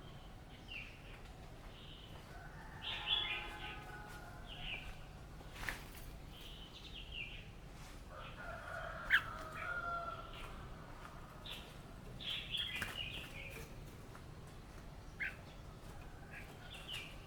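Red-whiskered bulbul singing in short, bright phrases repeated every second or two. Two longer, lower calls come in about three and nine seconds in.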